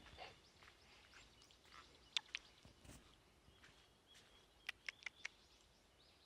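Faint outdoor quiet with a few short, sharp bird chirps: two a little after two seconds in, then a quick run of four near the end.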